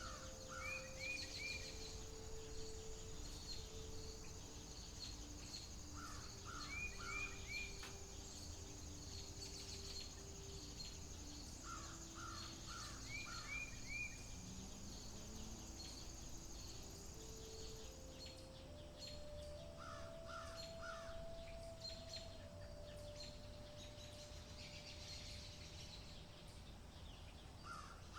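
Outdoor nature ambience: a bird calls in quick runs of three or four notes, repeating about every six to seven seconds, over a steady high insect-like hum that stops about two-thirds of the way through. Faint low held tones drift slowly in pitch underneath.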